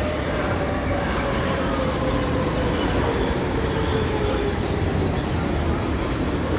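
First-generation Brussels metro train (M1–M5 series) running, its traction motor whine sliding slowly and steadily down in pitch as the train slows, over a steady rumble of running noise.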